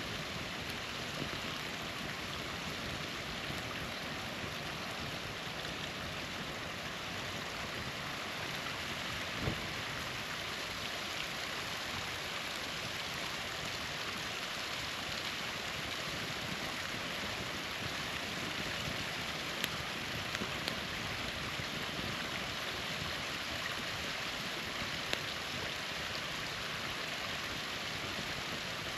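Steady rushing splash of a small waterfall, with a few sharp pops from a campfire.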